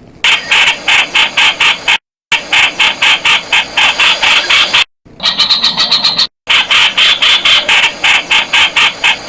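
Streak-eared bulbul calling: a rapid run of sharp, repeated notes, about five a second. The runs are broken by sudden short silences about 2, 5 and 6.5 seconds in.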